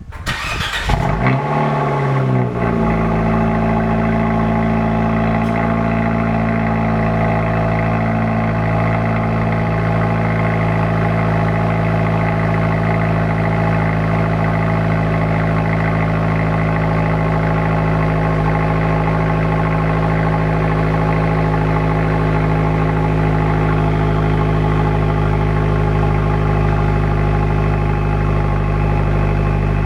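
Fiat Spider Abarth engine with a Record Monza exhaust, started from cold. It catches in the first couple of seconds with an uneven flare, then settles into a steady idle.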